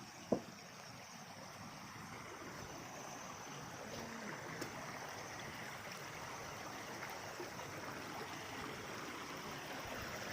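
Shallow stream water running over rocks, a steady rush that slowly grows louder. A short sharp sound stands out about a third of a second in.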